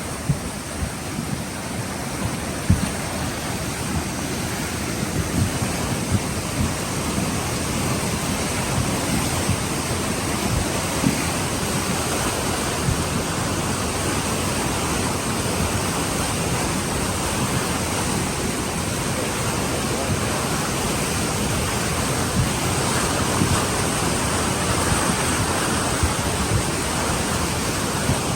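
Floodwater rushing in a raging torrent: a loud, steady wash of noise with scattered short low thumps.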